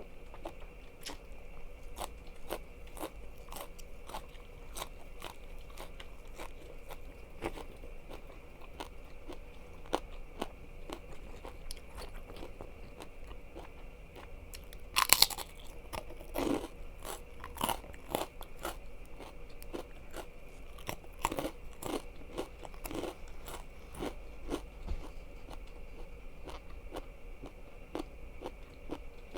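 Close-miked eating: chewing with many small wet clicks, and crunchy bites into food. The loudest cluster of crunches comes about halfway through, with more crunching bites over the next several seconds.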